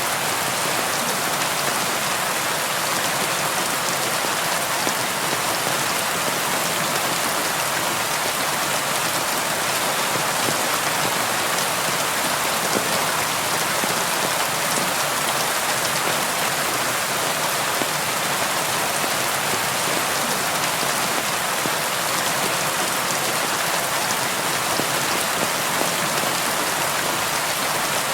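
Steady rain falling on window glass: an even hiss with faint individual drop ticks scattered through it.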